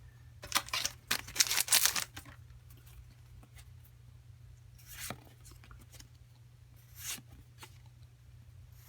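A foil Pokemon booster pack being opened, a quick run of sharp crinkling strokes in the first two seconds, followed by a few soft clicks as the trading cards are handled.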